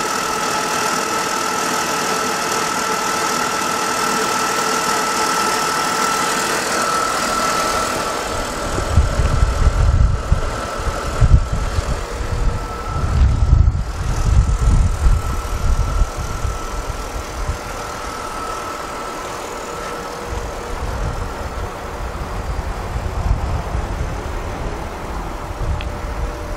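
BMW 520i E39's straight-six engine idling steadily, with a steady high whine over it. From about eight seconds in, irregular low buffeting on the microphone becomes the loudest sound for several seconds, then eases and returns more weakly near the end.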